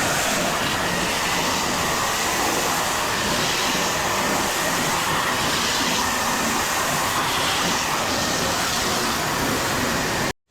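Pressure washer running and spraying rinse water: a loud, steady rush that cuts off suddenly near the end.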